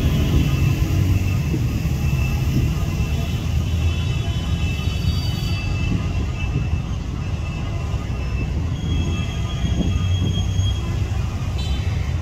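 ZCU-30 diesel-electric locomotive hauling a passenger express, approaching from a distance with a steady low rumble. Thin high tones come and go over it.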